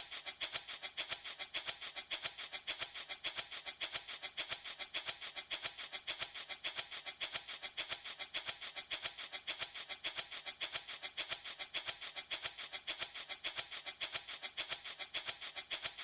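Handmade wooden baby rattle shaken in a steady, even rhythm, several crisp, hissy rattles a second with no pause.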